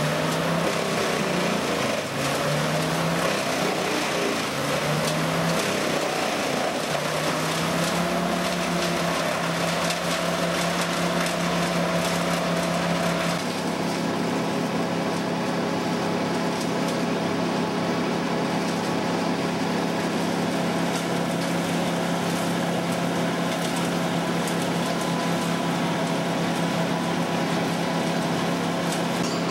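Wood chipper engine running steadily with wood crackling through it; the engine pitch wavers in the first several seconds, then holds, and the tone changes abruptly about halfway through.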